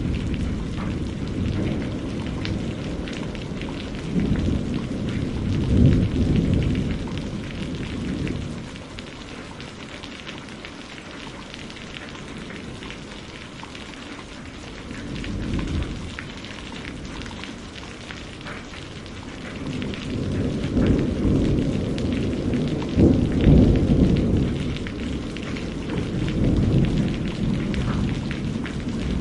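Steady rain with a close patter of drops, under low rolling thunder that swells and fades several times, loudest about six seconds in and again around twenty-three seconds in.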